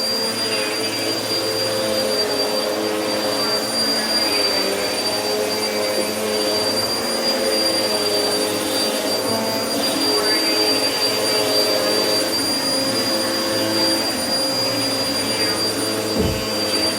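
Vacuum cleaner running steadily on carpet, its tone shifting up and down every few seconds as it is worked over the floor, with a steady high whine above the motor. A short low thump near the end.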